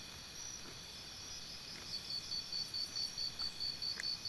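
Crickets chirping: a steady high trill, with a pulsing chirp about four times a second from about two seconds in.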